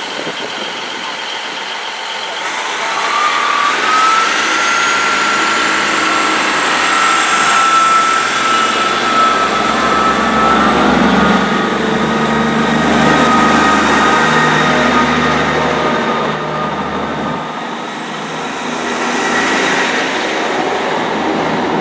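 A Class 158 diesel multiple unit departing, its diesel engines running with a low rumble and wheel-on-rail noise. A steady high whine sounds through the middle, and the rumble drops away about three-quarters of the way through.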